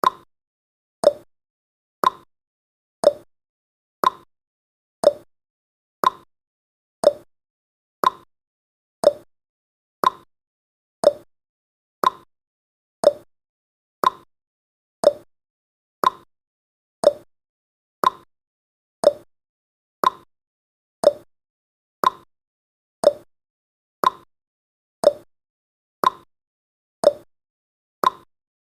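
Countdown timer's ticking sound effect: one short tick every second, alternating between a higher and a lower tick like a clock's tick-tock.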